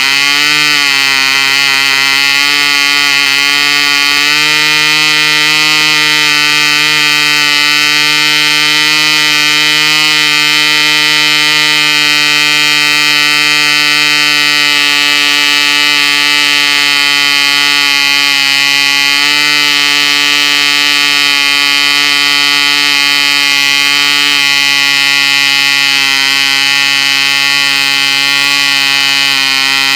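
Cipolla 1.5cc Junior model glow engine running at full speed, turning an 8x6 propeller: a loud, steady high-pitched whine. The pitch wavers briefly at the start, then holds nearly constant.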